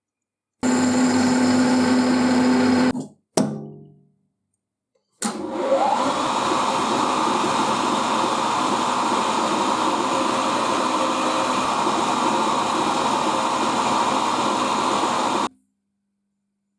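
A motor-driven shop machine running in short edited shots. First a run of about two seconds with a steady hum, then a sharp click that dies away quickly. After a pause, a machine starts with a brief rising whine and runs steadily for about ten seconds before cutting off.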